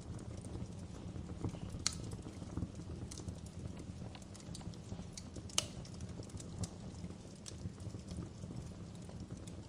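Wood fire burning in a fireplace, crackling with irregular sharp pops over a steady low rumble; two louder pops stand out, about two seconds in and just past halfway.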